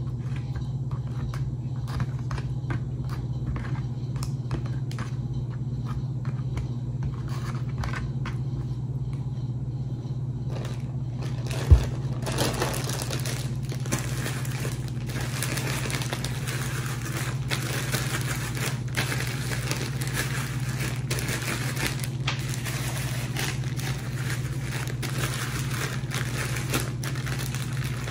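Breaded pork ribs frying in hot oil, crackling and sizzling over a steady low hum. About twelve seconds in there is a sharp knock, after which the sizzle turns louder and hissier.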